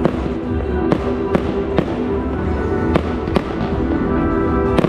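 Fireworks exploding: about eight sharp bangs at irregular intervals, over loud dance music with a steady beat.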